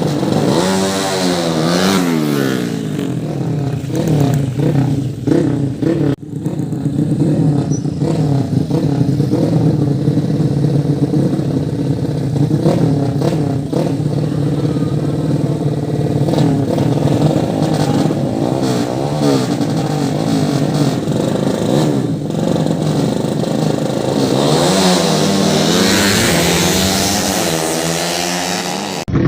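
Several 150 cc motorcycle engines running hard at a race, their pitch sweeping up and down as they rev and shift. The rising sweeps are strongest near the start and again near the end.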